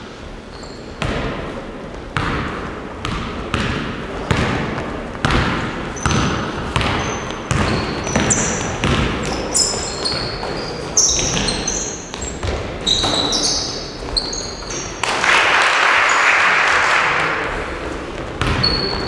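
Basketballs bouncing on a gym floor, with irregular echoing thuds, overlapping short high squeaks of sneakers near the middle, and a rush of noise lasting about two seconds near the end.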